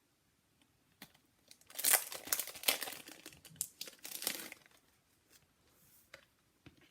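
Plastic packaging crinkling as it is handled, most likely the packet or sheet of self-adhesive rhinestones, in a crackly run of about three seconds starting near two seconds in, followed by a few faint ticks.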